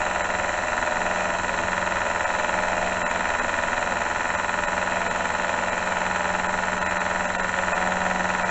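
Metalworking machine tool running steadily, its motor and gearing giving a constant hum with several steady whining tones.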